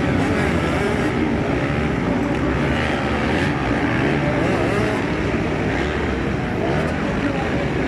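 Several motocross bike engines revving and easing off, overlapping, their pitch rising and falling.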